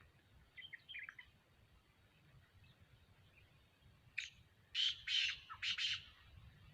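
Black francolin calling: a few faint chirps about a second in, then a loud, harsh call of about five short notes near the end.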